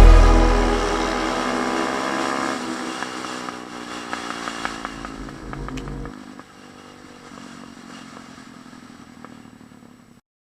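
Pit bike's small single-cylinder four-stroke engine running, getting steadily quieter, with a couple of changes in engine speed, until the sound cuts out near the end.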